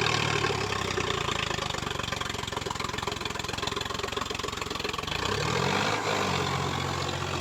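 Sonalika tractor's diesel engine running, its low steady note giving way to a faster, rougher pulsing about half a second in, then shifting in pitch about five seconds in and settling back to a steady hum.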